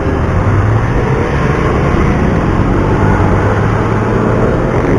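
Steady, loud wind rush on a chest-mounted action camera's microphone while cycling, mixed with the engine noise of road traffic.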